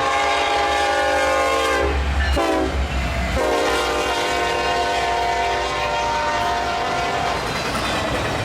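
Diesel locomotive air horn sounding: a long blast ending about two seconds in, a short blast, then another long blast, in the pattern of a grade-crossing signal. A low rumble from the passing train runs underneath.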